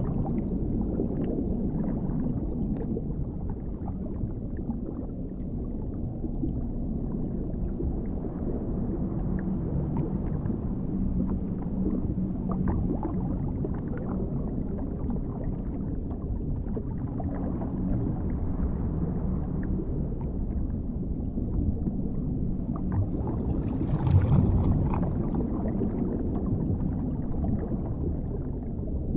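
Dark underwater ambience: a deep, muffled rumble of water with faint gurgles and scattered soft clicks, swelling briefly about three quarters of the way through.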